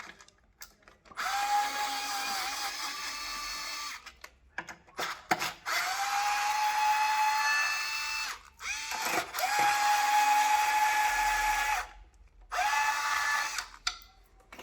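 Power drill-driver running in four runs of a few seconds each with a steady whine, spinning out bolts.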